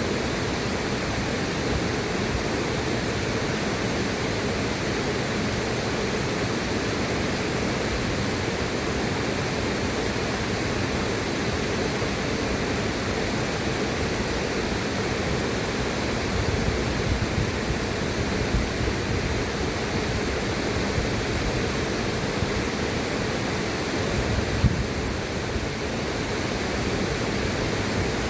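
A river flowing: a steady, full rush of water, with a few soft low knocks of water in the second half.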